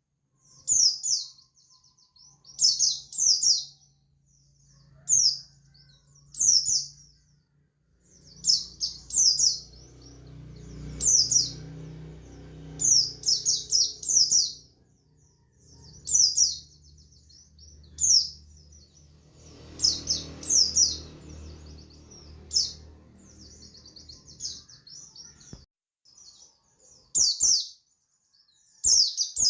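Oriental white-eye (pleci buxtoni) singing in short, quick, high-pitched chirping phrases, one every second or two, the continuous 'ngalas' song style. A low rumble runs underneath through the middle part.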